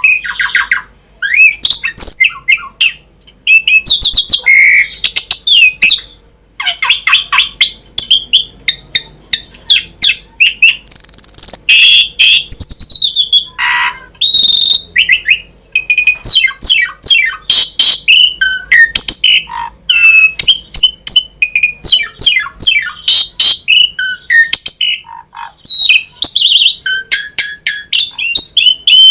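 Asian pied starling (jalak suren) singing a long, varied song: loud whistled glides, rapid chattering trills and harsh squawks and clicks in quick succession, with only brief pauses.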